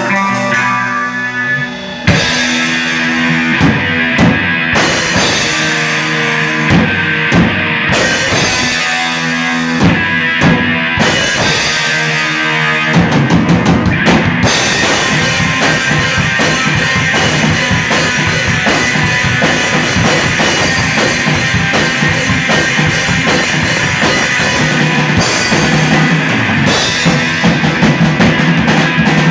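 Rock band playing an original song live: electric guitar alone at first, then the drum kit comes in about two seconds in, and the whole band plays fuller and denser from about thirteen seconds in.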